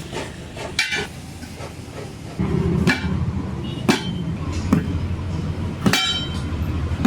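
Metal knocks and clinks of tyre-fitting tools, about five strikes a second or so apart, each ringing briefly. A low steady machine hum sets in a couple of seconds in.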